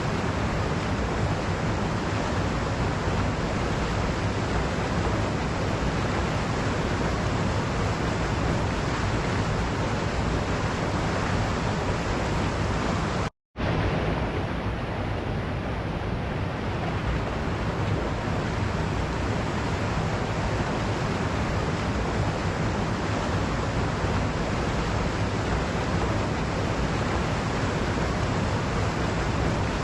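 Waterfall rushing in an even, steady roar of falling water. It cuts out to silence for a fraction of a second about halfway through, then carries on unchanged.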